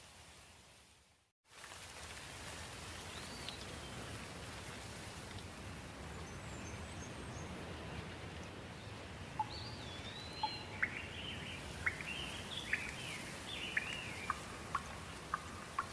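Birds calling over a steady hiss of outdoor background noise. A whistled call rises and falls a few seconds in, and from about nine seconds in a bird gives a run of sharp chirps, about two a second. Just over a second in, the sound fades out briefly to silence before the recording resumes.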